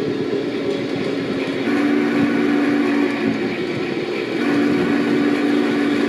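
Train running with a steady rumble. Two long, low, steady tones sound over it, one beginning about a second and a half in and one a little past the middle.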